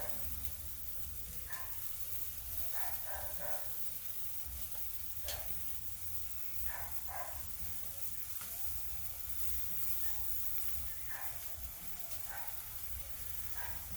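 Quail sizzling over a charcoal grill: a steady hiss of fat on the coals, with a sharp pop once or twice. Short high squeaks come and go every few seconds.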